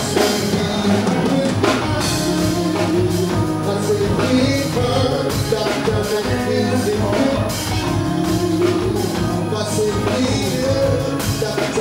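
Live band music with a drum kit and a singing voice.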